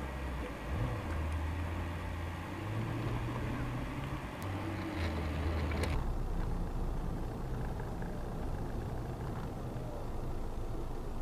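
Car engine and road noise heard from inside a moving car through a dash camera's microphone, steady throughout with a few faint clicks. About six seconds in, the higher part of the sound drops away abruptly.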